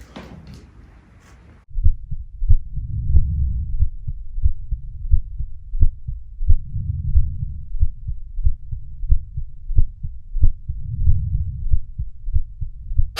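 Low, muffled heartbeat-like thudding, repeated over and over with no higher sound above it, starting abruptly about two seconds in.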